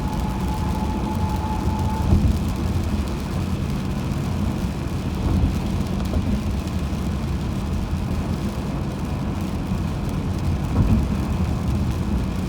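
Car driving on a highway: a steady low rumble of tyres and engine. A thin high whine stops about a second in.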